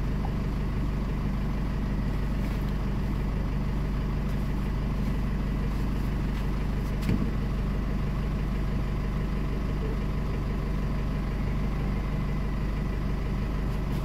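Chevrolet Trailblazer engine idling steadily, with a single short click about seven seconds in.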